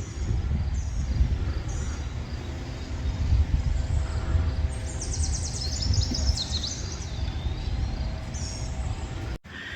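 Wind rumbling on the microphone outdoors, with small birds chirping a few times and a longer run of song about five to six and a half seconds in.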